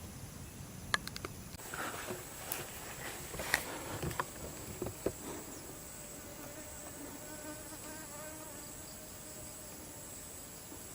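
Insects in the surrounding vegetation: a steady high-pitched drone sets in about one and a half seconds in, and a faint low buzz joins around the middle. Scattered clicks and knocks sound in the first half.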